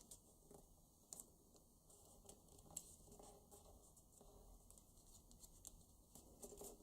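Faint rustling and creasing of a paper banknote being folded by hand, with scattered soft clicks.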